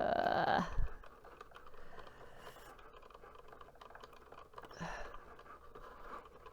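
Cricut Joy cutting machine working through an infusible ink sheet, its small motors whirring and ticking as the blade moves. There is a louder whir in the first second and another brief one about five seconds in.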